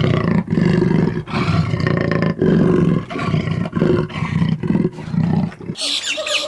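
A large animal gives a loud series of deep, rhythmic roaring calls, about one and a half a second, which stop abruptly near the end.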